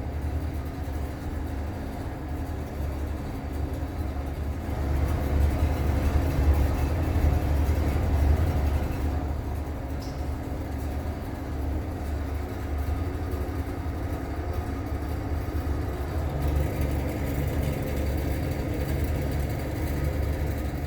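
Broan bathroom exhaust fan running with a steady low hum and a rattle, fairly loud for a fan that is new.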